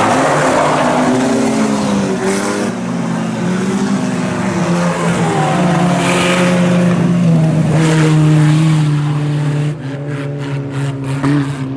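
Four-cylinder engines of IMCA Sport Compact race cars running on the track, their pitch rising and falling with the throttle, with one engine holding a steady note for a few seconds midway.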